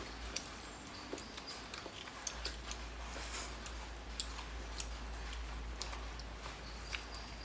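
A person chewing food, with many small, sharp wet clicks and smacks of the mouth scattered through it, over a steady low hum.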